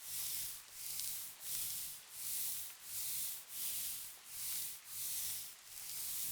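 Soft rhythmic rubbing, about nine even strokes at roughly one and a half a second, each a brushing hiss that swells and fades: ASMR makeup-removal wiping.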